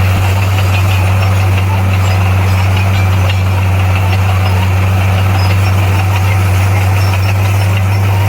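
Komatsu bulldozer's diesel engine running steadily: a deep, even drone with no change in speed.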